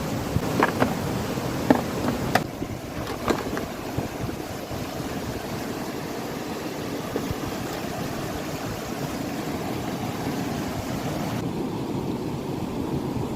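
A few sharp clicks or snaps in the first three seconds over a steady outdoor rushing noise, with no tone to it.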